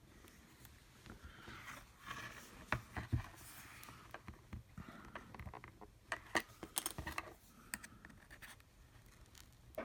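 Plastic opening picks scraping and prying along the edge of an iPad mini's glass screen, with scattered small clicks and taps, the loudest a cluster about six to seven seconds in.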